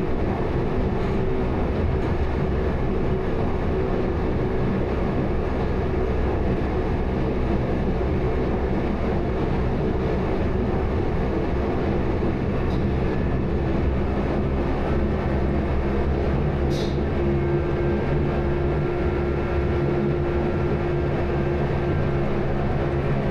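Train running steadily, a constant rumble with a low hum, and a brief high squeal about 17 seconds in.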